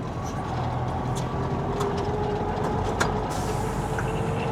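Semi truck's diesel engine running steadily from inside the cab, with a faint whine rising slowly in pitch over the last few seconds. A couple of sharp knocks sound partway through, and a hiss comes in about three seconds in.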